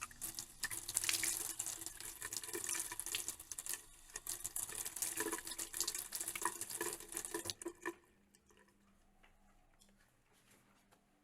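Small loose objects rattling inside plastic milk bottles as they are shaken: a dense, rapid patter that stops about eight seconds in.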